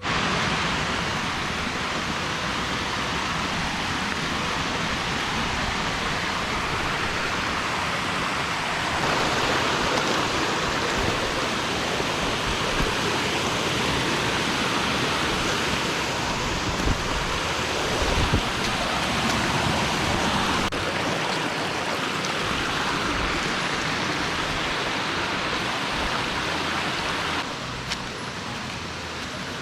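A waterfall rushing steadily, an unbroken hiss of falling water. It gets louder about a third of the way in and a little quieter near the end.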